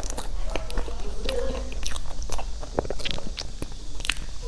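Close-miked mouth sounds of a person chewing a soft cream-filled pastry: wet smacks and short clicks, then another bite taken about four seconds in.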